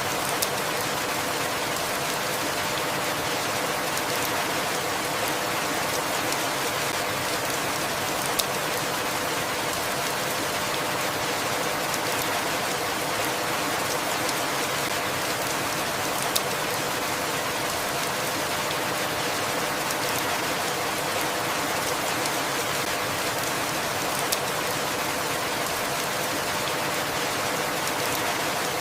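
Steady rainfall, an even hiss, with a few sharp single drop ticks about every eight seconds.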